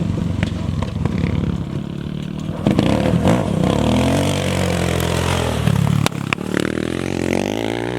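Off-road racing engine revving hard, its pitch climbing and falling several times, with a sharp knock about six seconds in.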